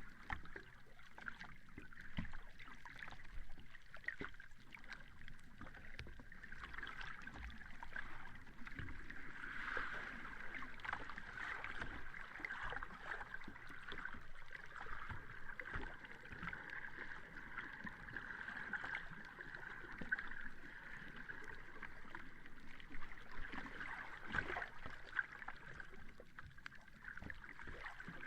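Sea water washing on the shore in a steady wash, with small splashes and clicks scattered through it.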